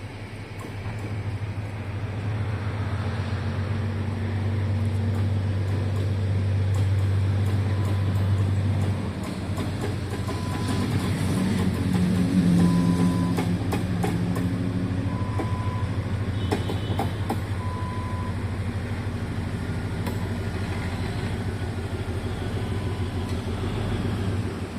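A train running by: a steady low rumble and hum that grows louder over the first few seconds. From about ten seconds in, short high beeps repeat roughly every two seconds.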